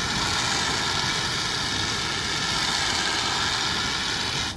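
Fire-extinguishing device discharging into a campfire: a loud, steady rushing hiss that cuts off suddenly near the end.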